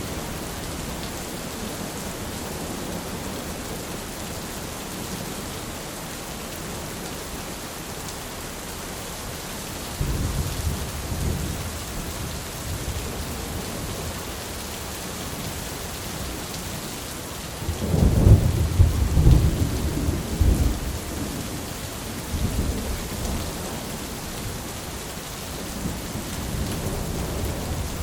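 Steady heavy rain hissing, with rolls of thunder: one rumble breaks in about ten seconds in, a louder, longer peal comes at about eighteen seconds, and smaller rumbles follow.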